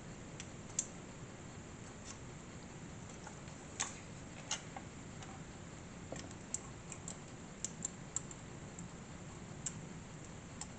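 Scattered light clicks and ticks from a small screwdriver and plastic and metal model parts being handled as screws are driven tight into a scale motorcycle model's frame.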